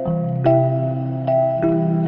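Low-pitched chimes struck one after another, about four notes in two seconds, each ringing on and overlapping the last.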